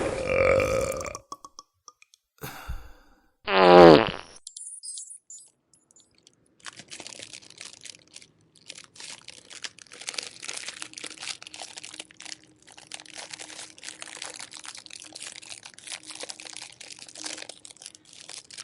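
A loud, short fart noise falling in pitch, about three and a half seconds in, then a long stretch of fast, fine crackling and crunching that starts near the middle and keeps going.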